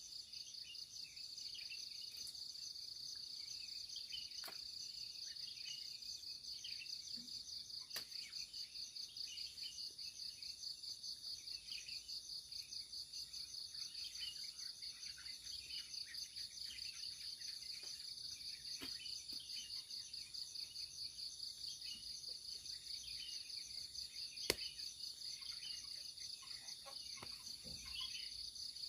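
A steady chorus of insects with a rapid, even pulsing, with faint bird chirps underneath. There is a single sharp click about three-quarters of the way through.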